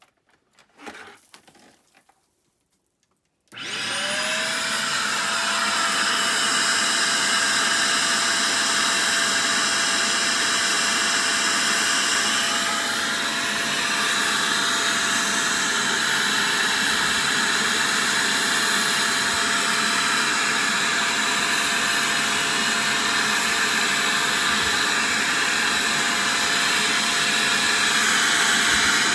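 Upright vacuum cleaner switched on about three and a half seconds in: the motor spins up with a quickly rising whine, then runs steadily. Before it starts there are only a few faint handling sounds.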